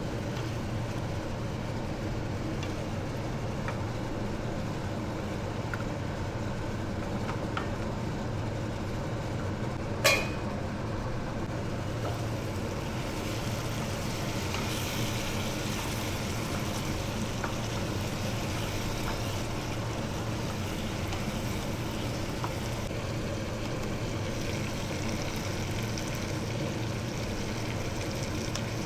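Chicken frying in a pan over a steady low hum. A single sharp clink comes about ten seconds in, and the frying hiss turns brighter a few seconds later.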